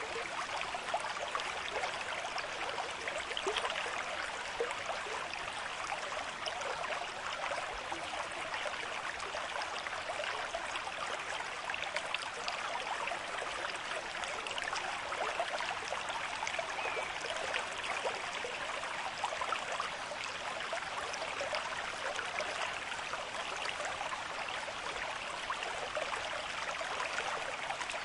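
River stream flowing steadily at a moderate rate, a continuous rush of water with fine splashing and gurgling.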